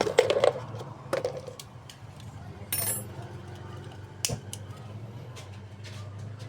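Scattered metallic clinks and knocks over a low steady hum, with a short hiss about three seconds in.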